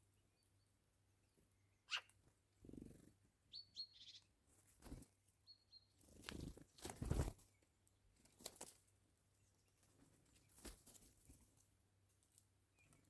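Faint bird calls, a few short high chirps in the middle, among scattered soft thumps and rustles, the loudest about halfway through.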